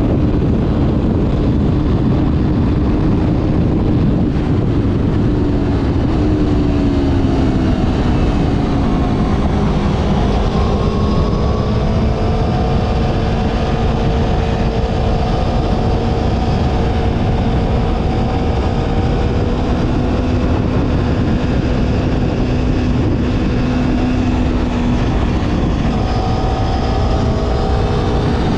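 Motorcycle engine running under way, over a heavy rush of low noise. The engine note falls about six to nine seconds in, holds steady for a long stretch, then falls again near the end.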